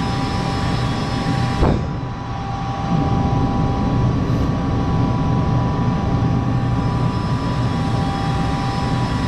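Steady mechanical hum of a motor or blower running, a low rumble with a steady whine, broken by a single knock about two seconds in.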